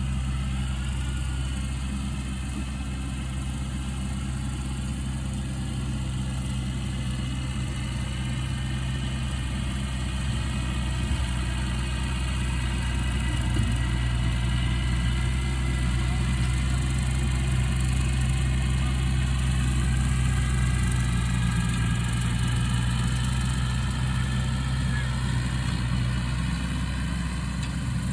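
Tractor engine running steadily at a low, even speed, with a slight swell in loudness midway.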